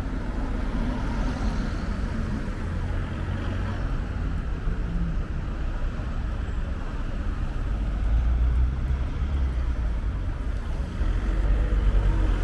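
City street ambience with passing car traffic, and gusts of wind buffeting the microphone as a low, uneven rumble that swells twice in the second half.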